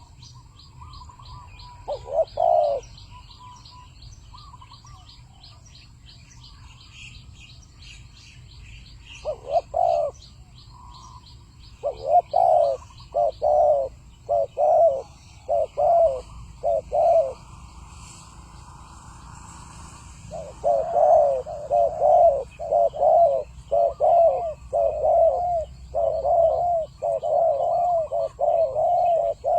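Spotted dove cooing in repeated short phrases: a few phrases at first, then a long, nearly unbroken series in the second half. It is a dove call of the kind used to draw wild doves to a trap. Over the first half a small bird chirps rapidly in a high pitch.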